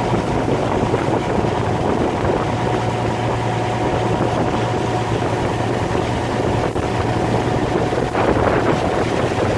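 A fishing boat's engine runs steadily while the boat is under way, with a low, even hum, and wind blows across the microphone.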